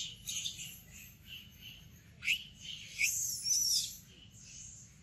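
Birds chirping: a series of short high calls, two sharp rising chirps, then a quick warbling phrase a little after three seconds in.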